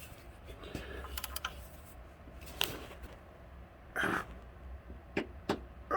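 Wrench working the camshaft gear bolt on a 2.4 L engine while a taped-in pry bar holds the gear: scattered light metallic clicks and knocks, with a louder short noise about four seconds in and a few sharp knocks near the end, as the bolt is cracked loose.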